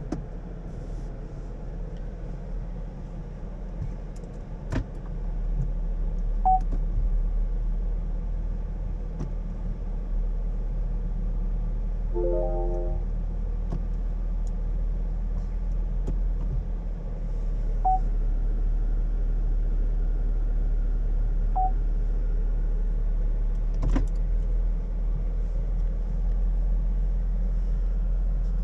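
The 2018 Camaro RS's 3.6-litre V6 idling with a low, steady rumble. Three short electronic beeps and a quick run of stepped chime tones about twelve seconds in come over it, and there are a couple of sharp clicks.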